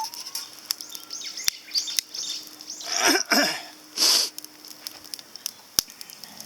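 Small wood fire crackling and popping in a compact titanium fire grill, with a run of bird chirps in the first half. Two short, loud rushing bursts come about three and four seconds in.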